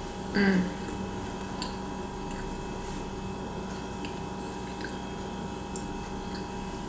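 Someone chewing a mouthful of corn dog with the mouth closed: faint, soft wet mouth clicks now and then, over a steady electrical hum. A brief voiced sound with falling pitch comes about half a second in.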